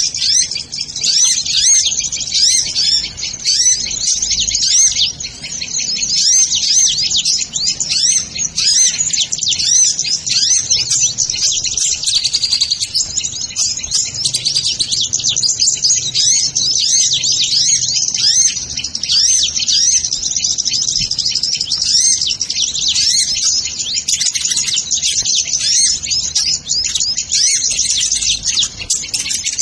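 Sunbirds (kolibri ninja) calling: dense, continuous high-pitched chirping and twittering with many short notes overlapping, without a pause.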